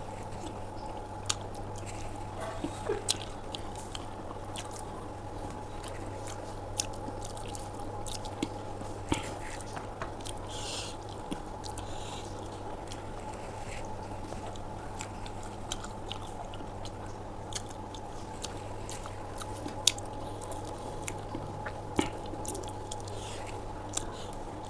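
Close-up mouth sounds of a person eating aloo paratha with curd: chewing, with scattered wet clicks and smacks. A steady low hum runs underneath.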